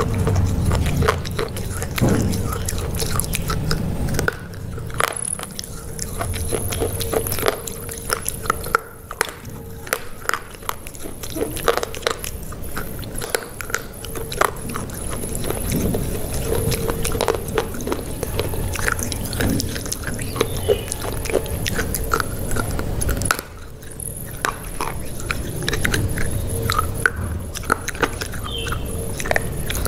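Close-miked biting and chewing of a crunchy burger, with many short crisp crunches throughout.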